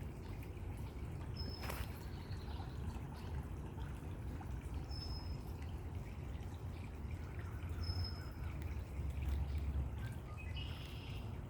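Water pouring and trickling steadily over a low rumble. Brief high bird notes come every few seconds, and a short run of chirps comes near the end.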